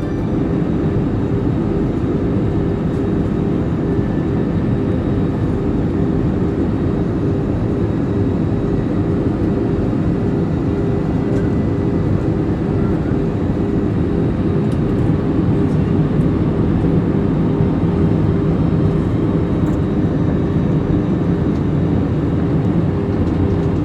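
Jet airliner engine and airflow noise heard inside the cabin: a loud, steady rumble with a constant hum running through it.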